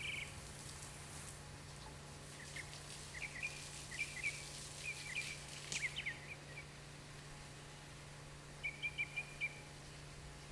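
Birds chirping: scattered short, high chirps, then a quick run of five near the end, over a steady low hum.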